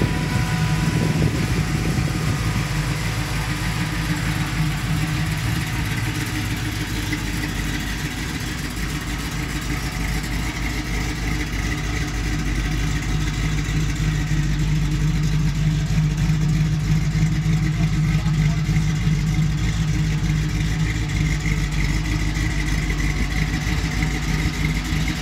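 V8 engine of a 1969 Chevrolet Camaro SS idling with a steady low rumble as the car creeps along at walking pace, growing slightly louder for a few seconds in the middle.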